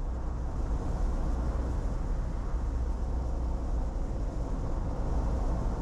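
Steady road noise inside a moving car: a constant low rumble from the tyres and drivetrain, with a lighter hiss above it.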